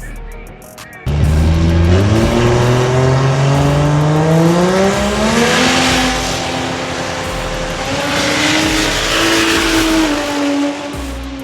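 High-horsepower truck engine at full throttle, starting suddenly about a second in, its pitch climbing steadily for several seconds and then holding before it falls away near the end.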